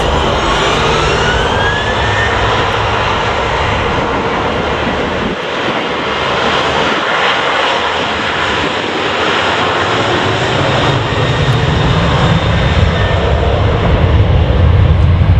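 Jet airliner engines running loud. A rising whine comes in the first two seconds, and a low rumble builds and grows louder through the last few seconds.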